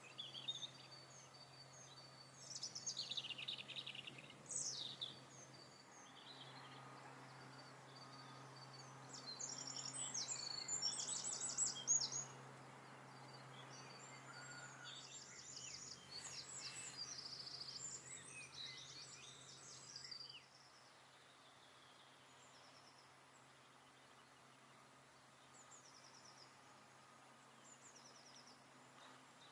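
Several songbirds chirping and trilling in bursts on and off, over a faint steady low hum.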